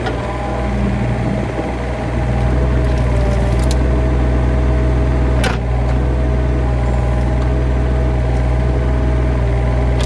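An engine running steadily at an even pitch, getting louder about two seconds in, with a single sharp click about halfway through.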